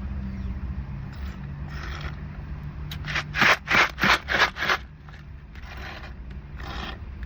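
A car engine idles steadily underneath a quick run of about five short rasping noises in the middle, from a nearly empty cup of lemonade and ice being drained.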